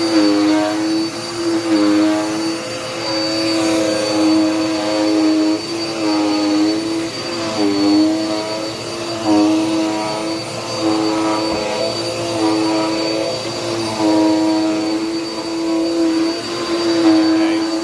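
Dirt Devil Power Max vacuum cleaner running steadily with a motor hum and a thin high whine. The motor pitch sags briefly and recovers every second or two as it is worked.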